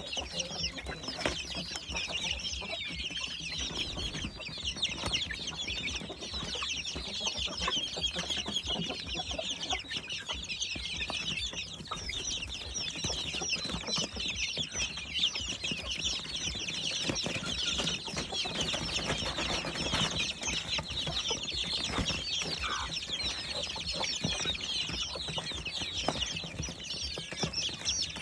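A flock of chicks peeping nonstop, a dense chorus of many short high chirps overlapping one another.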